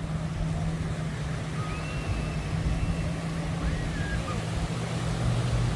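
A steady low engine drone over a wash of outdoor noise. The hum drops lower near the end, and faint voices are heard now and then.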